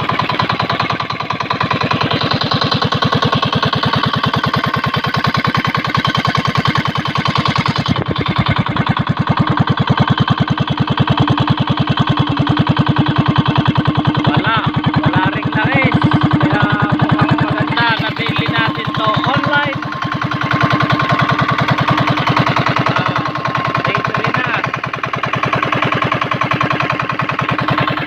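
Yamato 20 HP 198FA single-cylinder diesel engine running steadily with fast, even firing pulses, being run in during break-in.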